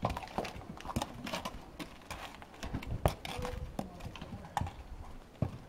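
Irregular short knocks and clicks, a few a second, uneven in strength.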